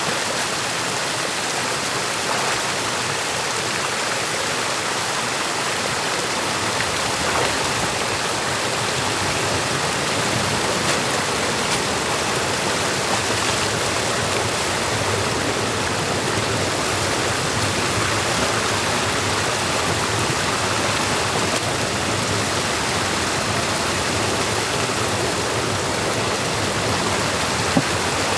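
Stream water rushing steadily through a beaver dam being opened by hand. A single sharp knock comes near the end.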